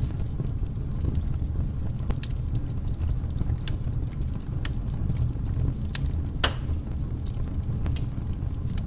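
Fire burning: a steady low rumble with irregular sharp crackles and pops scattered through it.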